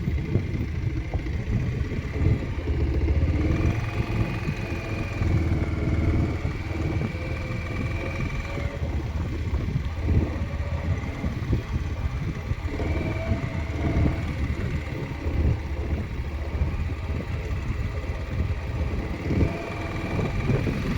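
Motorcycle engine running as the bike is ridden down a hill road, its note shifting a little up and down.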